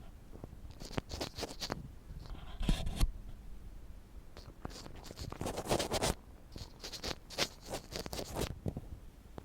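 Ear pick scratching and scraping close to the microphone in short, irregular clusters of strokes, some of them loud.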